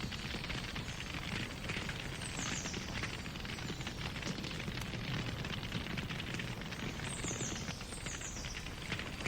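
Campfire crackling steadily, with a dense run of small pops over a low rush from the burning wood.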